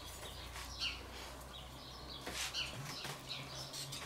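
Small birds chirping, a quick scattered series of short, high chirps, some falling in pitch.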